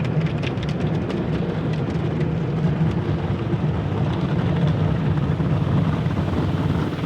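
Automatic car wash working over a pickup truck: spinning brushes and water spray make a steady rumbling wash, with a few quick slaps in the first second.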